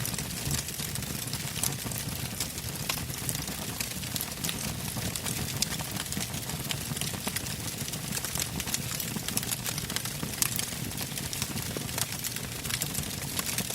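Campfire of burning logs crackling, with many quick sharp pops over a steady low rush of flame.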